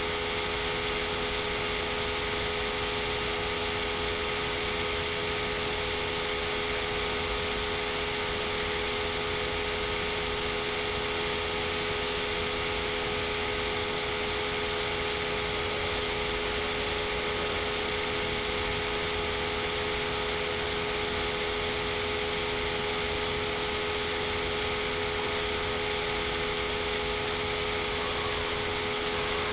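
Steady machine hum with several fixed tones over a whirring hiss, unchanging throughout: a computer's cooling fan running while a simulation computes.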